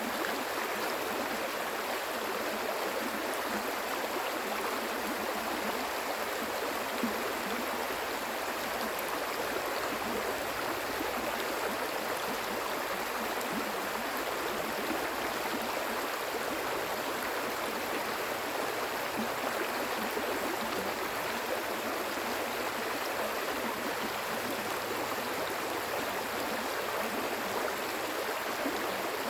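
Flowing water of a stream rushing and gurgling steadily.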